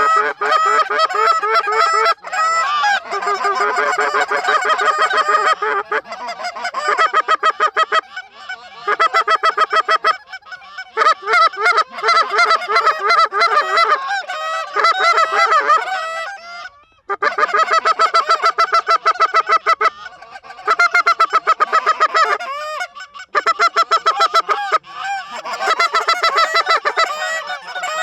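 Goose calls blown hard and fast: loud runs of rapid honks and clucks, each a few seconds long, broken by brief pauses.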